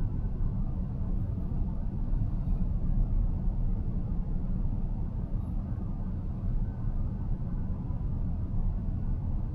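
Steady low road and tyre rumble of a car cruising along, heard from inside the cabin.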